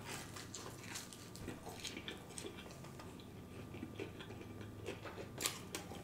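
Close-miked chewing of a bite of pizza: quiet, irregular wet mouth clicks and smacks, with one sharper, louder smack about five and a half seconds in.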